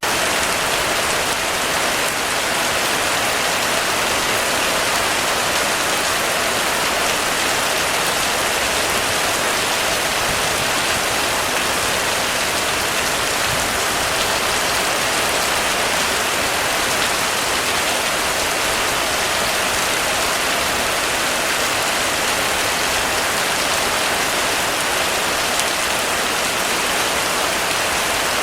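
Rain falling steadily on a roof, an even, dense patter with no letup.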